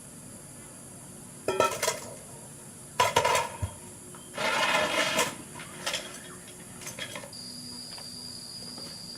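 A few short bursts of clattering and rubbing, like objects such as dishes or utensils being handled, with scattered clicks between them. Near the end a steady high insect trill starts up.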